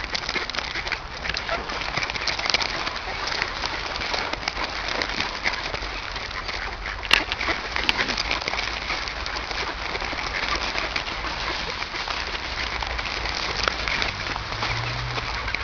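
A large flock of birds calling all at once, a dense, continuous chatter with no pauses.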